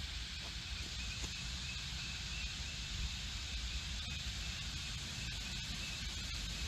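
Steady outdoor background noise: a low wind rumble on the microphone with an even hiss over it.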